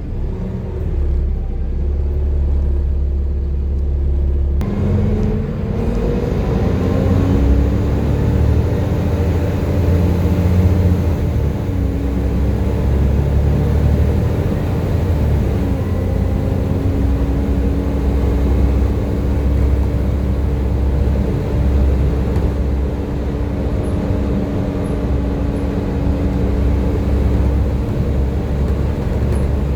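Volvo B7TL double-decker bus engine being driven hard, with a deep rumble under a hoover-like whine. The whine climbs in pitch several seconds in, then holds steady.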